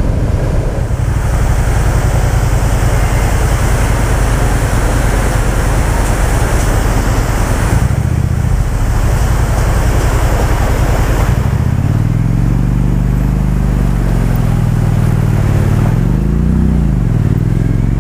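Motorcycle riding through a waterfall crossing on the road: a loud rush and splash of falling water over the engine for the first two-thirds. Then the water fades and the engine revs up and eases off twice.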